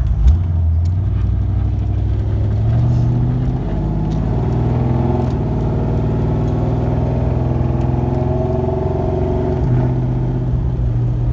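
Engine of a Fox-body Ford Mustang LX with an AOD automatic transmission, heard from inside the cabin while driving at low revs. The pitch rises slowly, drops about three and a half seconds in, and changes again near the end. This is the AOD acting oddly: the owner doesn't call it slipping and feels it mostly when coasting.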